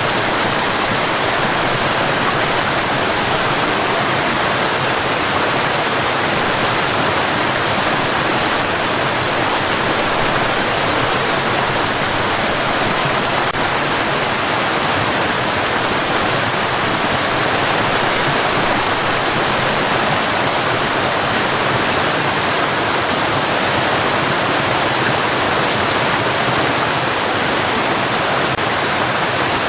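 Steady white noise: an even, unbroken hiss at a constant level, weighted to the middle and upper range with little deep bass.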